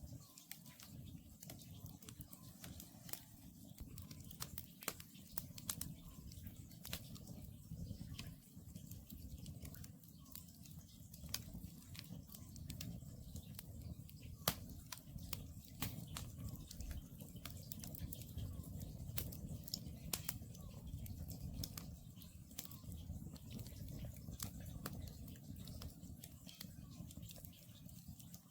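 Wood campfire burning, with frequent irregular crackles and sharp pops from the logs over a steady low rush of the flames.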